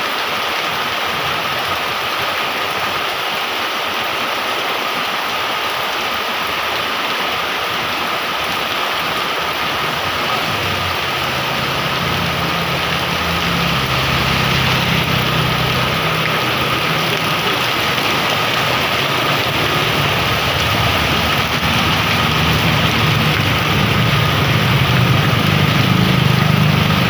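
Heavy rain pouring steadily. From about ten seconds in, a vehicle engine's low running sound comes in under the rain and grows louder as it approaches.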